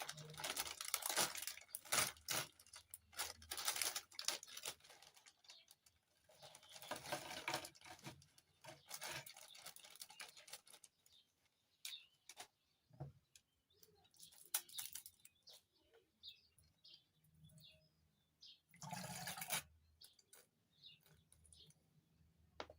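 A plastic Lay's potato chip packet crinkling and being torn open, then chips being eaten, in several loud crackly bursts with quieter gaps between.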